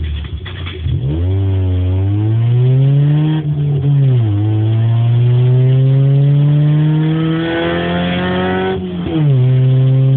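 Fifth-generation Honda Civic engine running with no exhaust fitted, loud and raw. It rises in pitch, dips briefly, climbs slowly again for several seconds, then drops about a second before the end and holds steady, like accelerating through gear changes.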